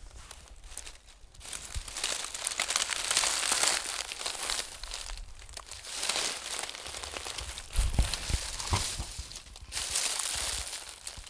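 Crinkly rustling and scratching in irregular bursts, with a few dull thumps about eight seconds in.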